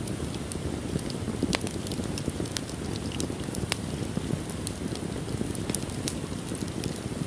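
Fire burning in a fireplace: a steady low rush of the flames with irregular sharp crackles and pops, several a second.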